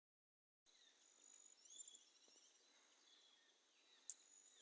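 Faint bush ambience after a short silence at the start: scattered bird chirps and short gliding whistles over a steady, high, thin insect drone, with one sharp click near the end.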